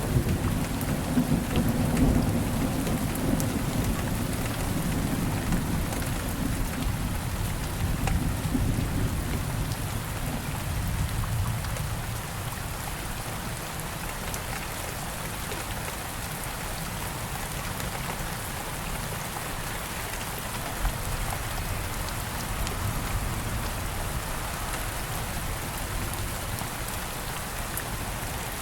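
Steady rain falling, with a low rumble of distant thunder through the first half that fades away by about the middle.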